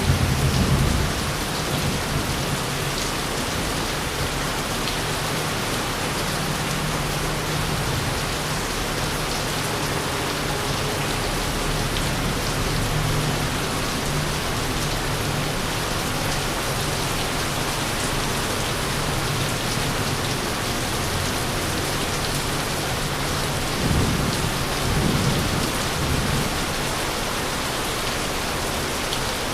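Steady rain falling, with low rolling thunder rumbling underneath. The thunder swells louder right at the start and again for a couple of seconds late on.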